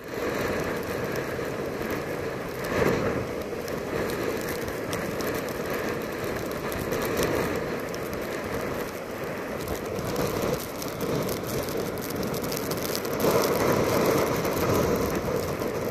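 Hurricane wind and rain making a steady rushing noise, swelling in gusts a few seconds in and again near the end.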